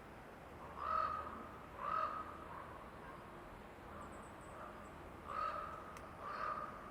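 A bird calling four times: two short loud calls about a second apart, a pause, then two more. Faint high chirps sound in between.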